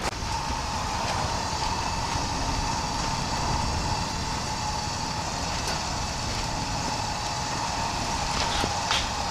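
A steady mechanical hum with a constant high whine, over a low rumble.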